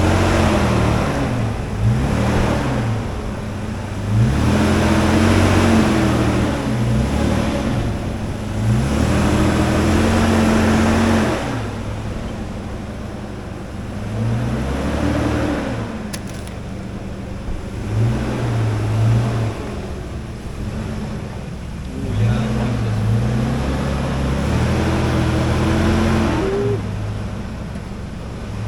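A 4x4 truck's engine revving up and easing off in repeated surges, its pitch rising and falling every few seconds, as it drives off-road.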